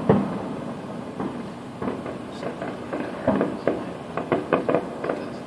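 Distant aerial fireworks bursting: an irregular string of sharp bangs and pops, with a quick cluster about four to five seconds in.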